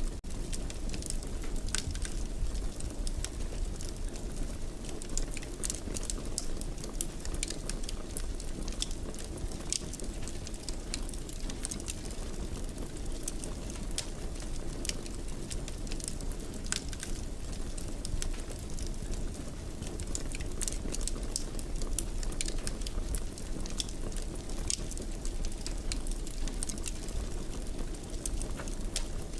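Fire crackling in a fireplace: frequent small sharp pops and snaps over a steady low rumble.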